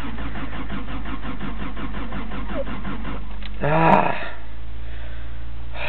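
Starter cranking a 1986 Toyota's engine in an even rhythm for about three and a half seconds without it catching, the gas pedal pumped beforehand: a cold start attempt that the owner thinks is getting close to flooding. A short louder burst comes about four seconds in.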